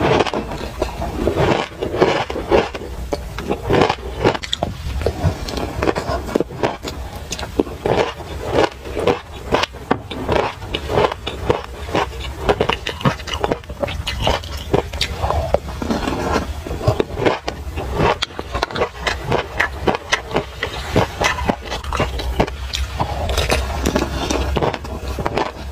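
Close-miked crunching and chewing of a mouthful of toasted sesame seeds: a dense, irregular run of crackly clicks, with a spoon scraping against the glass mug now and then.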